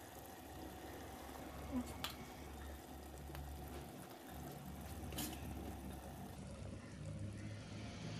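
Mutton frying in its masala in an aluminium pressure-cooker pot, a faint steady sizzle and bubbling, with a few light clicks.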